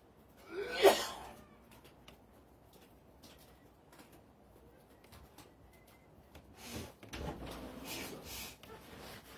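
A person coughs once, sharply, about a second in. Weaker shuffling noises with a low rumble follow near the end.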